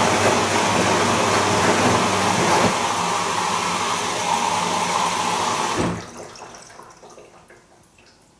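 Bosch Serie 2 VarioPerfect washing machine running loud, a rushing, water-like noise over a steady mechanical hum. About six seconds in it cuts off sharply, and the remaining sound dies away over the next two seconds to near quiet.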